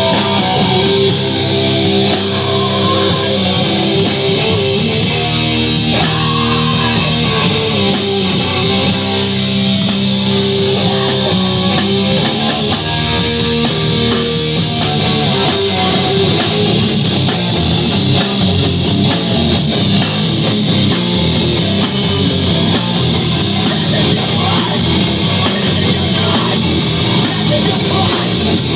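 Live heavy rock band playing loudly, with electric guitars over drums.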